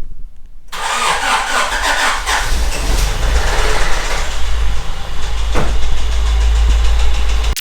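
A 1989 Honda Prelude's engine starting up suddenly about a second in and then running; the engine has rod knock, which the owner puts down to a damaged rod bearing.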